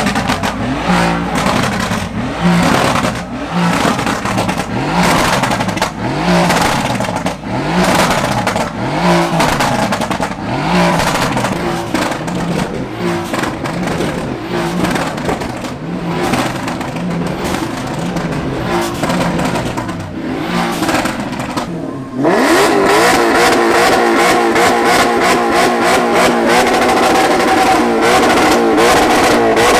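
Exotic car engine being revved again and again in short blips, each rising and falling in pitch about once a second. About 22 seconds in, a louder, steadier engine note suddenly takes over and holds.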